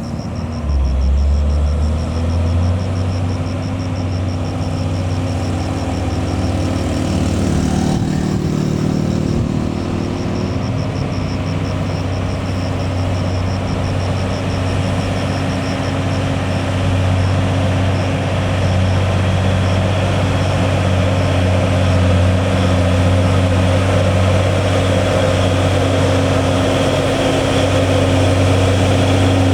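Heavy diesel truck engine pulling slowly up a steep grade, a steady low drone that steps up about a second in and shifts pitch slightly a few seconds later.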